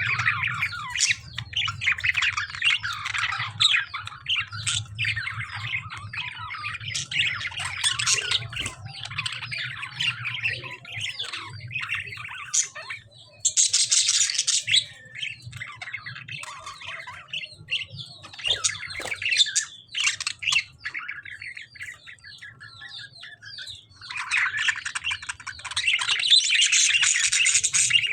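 A flock of budgies and lovebirds chirping and chattering without pause, with harsh squawks mixed in. There is a loud, shrill burst about halfway through, and a spell of louder, denser chatter near the end.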